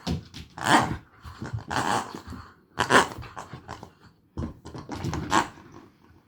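A puppy growling in a series of short, rough bursts, as in play-fighting.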